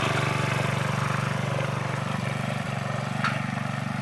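Small Robin petrol engine on a homemade plough machine running steadily with an even, rapid putter. A short click sounds about three and a quarter seconds in.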